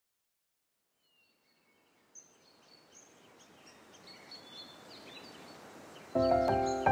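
Birds chirping fade in from silence over a soft outdoor hiss, growing louder. About six seconds in, music starts suddenly with loud held notes and becomes the loudest sound.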